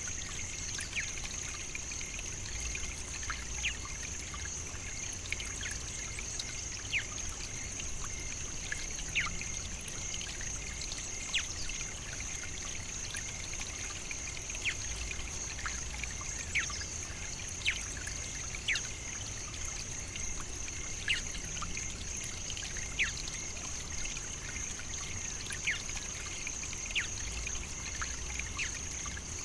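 Savannah nature ambience: a steady high-pitched insect chorus, with short descending whistled bird calls every second or two.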